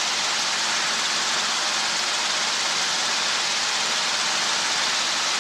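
Helicopter in flight heard through the cockpit intercom feed: a steady, even hiss with a faint low hum underneath.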